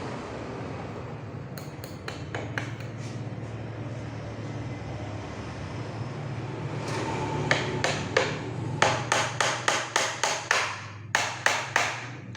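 Hammer driving nails into a wooden packing crate: a quick run of sharp, ringing blows, about three a second, in two bursts in the second half, over a steady low hum.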